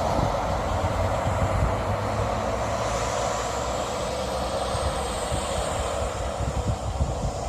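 A train running at a station, a steady rumbling drone.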